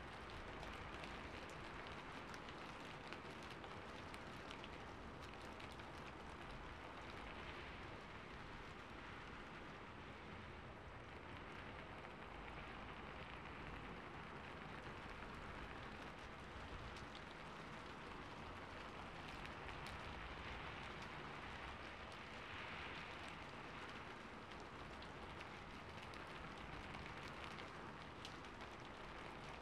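Ambience recording of rain on a rooftop: a soft, steady hiss of falling rain with fine scattered drop ticks.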